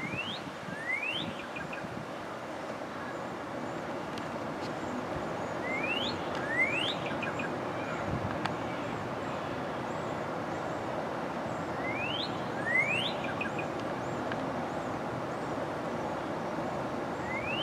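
Northern cardinal singing: a phrase of two rising whistled notes, each followed by a few short notes, repeated about every six seconds, four times in all. The singing sits over steady background noise, with faint high calls from another bird.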